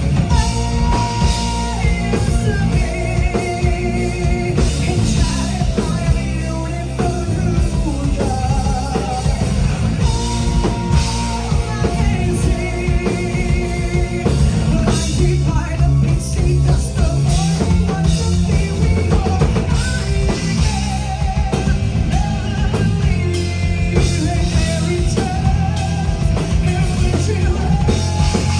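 Rock music from a full band, with a drum kit keeping a steady beat under bass, guitar and singing.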